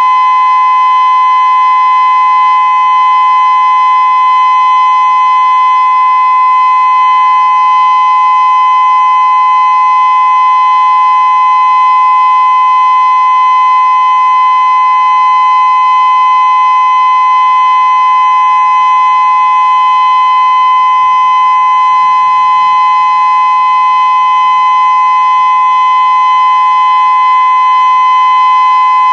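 Federal Signal Modulator 6024B electronic outdoor warning siren sounding its steady alert tone in a test, loud and held at one unwavering pitch.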